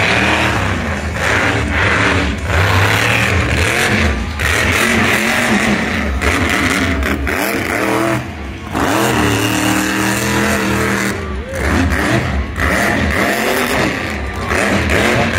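A monster truck engine being revved hard, its pitch climbing and falling over and over, with the throttle chopped briefly several times.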